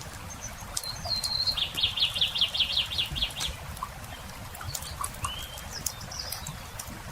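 A songbird sings a short phrase: one high held note, then a quick trill of about ten falling notes. Two brief chirps follow near the end. Throughout, a campfire crackles with scattered sharp pops.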